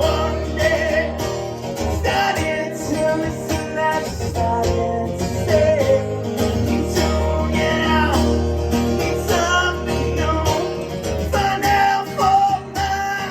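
Live rock song played by a band: strummed guitars over a steady bass, with a voice singing the melody.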